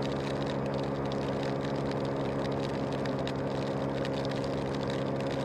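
Scooter engine running at a steady, unchanging pitch.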